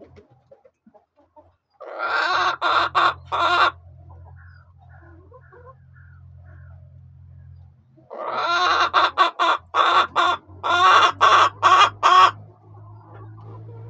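Chicken cackling loudly in two bouts of quick, repeated calls: a short one about two seconds in and a longer one of about four seconds starting near the middle, with softer clucks between them.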